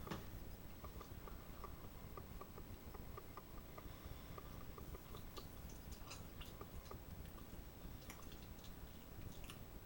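A person chewing food close to the microphone, faint wet clicks and small crunches scattered irregularly over a low steady room hum.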